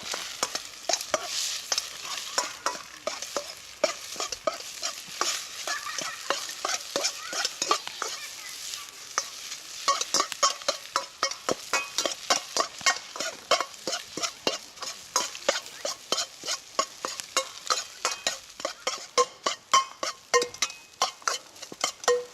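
Stir-frying fried rice in a metal pan: a metal spatula tapping and scraping against the pan a few times a second over a sizzle, the taps getting louder and more regular about halfway through.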